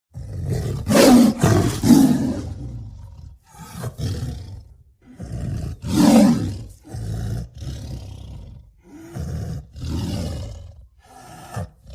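Tiger roaring and growling in a run of separate rough calls with short pauses between them, the loudest about a second, two seconds and six seconds in.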